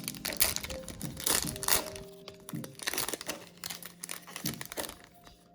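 Foil booster pack wrapper crinkling and tearing open in the hands, a busy run of sharp crackles.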